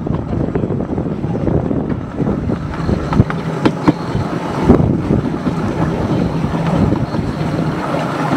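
Miniature railway train running along the track: a steady rumble with wind buffeting the microphone and a few sharp clicks in the middle.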